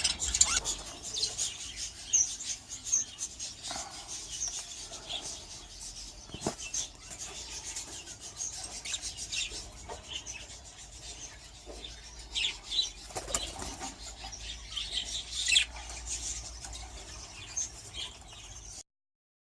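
Budgerigars chirping in short high calls amid rustling and wing flapping. The sound cuts off suddenly near the end.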